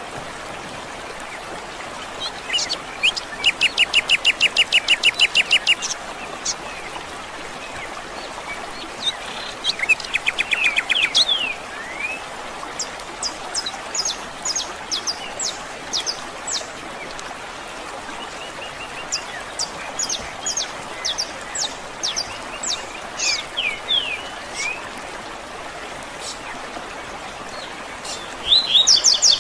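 Several birds singing over a steady background hiss: a rapid trill of evenly repeated notes a few seconds in and again about ten seconds in, then scattered short high chirps and sweeping calls, and a loud burst of song near the end.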